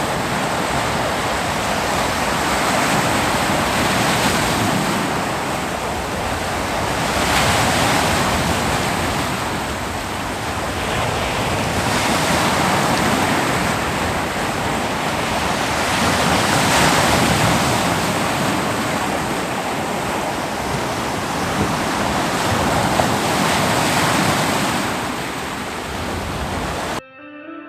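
Ocean waves breaking on a beach: a steady rush of surf that swells and eases every few seconds, cutting off abruptly near the end.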